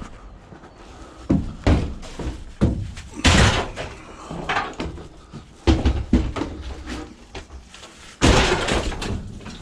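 Scrap metal being handled and shifted in the back of a van: a run of heavy clanks and thuds, with a longer scraping rattle about three seconds in and again near the end.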